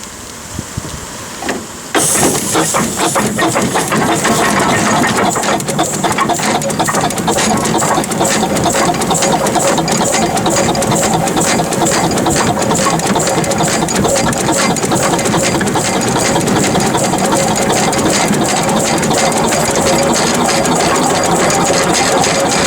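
Ruston Proctor steam tractor's engine running, a loud, rapid and even mechanical clatter that starts abruptly about two seconds in after a quieter opening.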